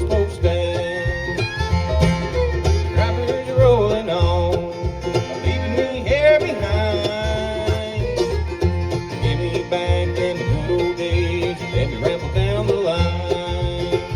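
Bluegrass band playing an instrumental passage, with a steady bass pulse and a lead line that slides between notes.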